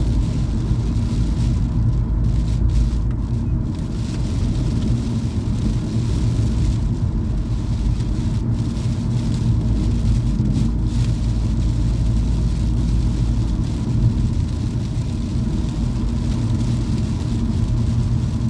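Steady road and engine noise of a car being driven, heard from inside the cabin as a low, even rumble.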